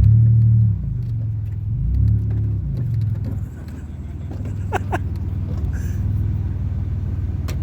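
Buick 3.1 V6 car engine running with its exhaust removed, giving a loud, low, open-pipe drone. It surges hard on the throttle twice in the first three seconds, then runs on steadily.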